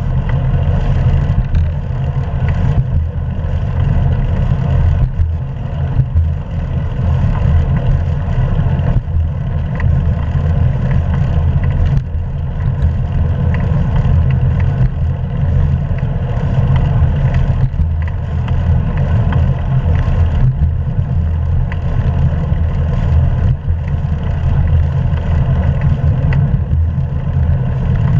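Steady low rumble of wind buffeting a GoPro's microphone while cycling, mixed with tyre and road noise from a hybrid bike.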